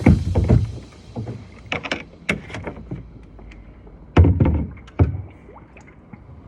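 A series of irregular thumps and knocks aboard a fishing boat, the heaviest at the very start and about four seconds in.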